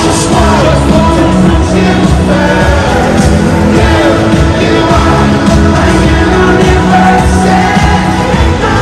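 Live K-pop stadium concert: a pop song with singing over a steady, heavy beat, loud through a phone microphone.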